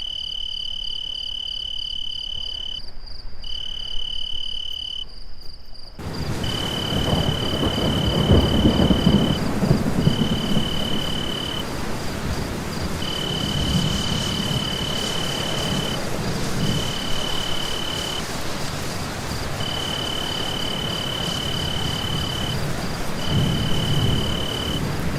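Ambience of insects trilling, high and pulsing. About six seconds in, steady rain joins it, with low thunder rumbling up several times.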